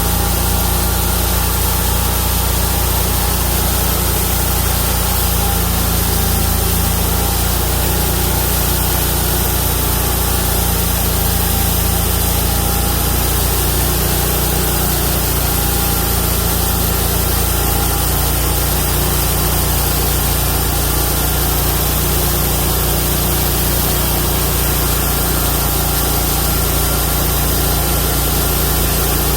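Homemade bandsaw mill with a 31 hp engine running steadily, its carbide-tipped band blade sawing through a Chinese toon log.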